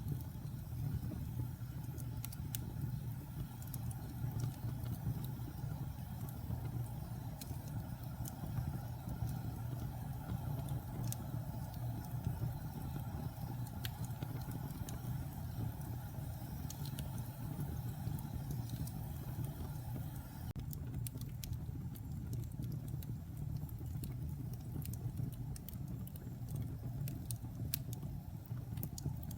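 Wood fire burning in a fireplace: a steady low rumble with scattered crackles and pops, the crackling getting busier about two-thirds of the way through.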